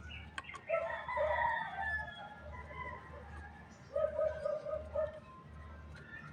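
Rooster crowing twice, a long crow about a second in and a shorter one about four seconds in.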